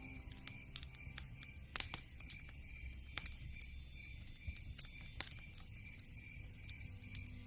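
Campfire crackling, with irregular sharp pops over a low steady rumble. Behind it, a faint high chirp repeats about two to three times a second, like an insect of the night.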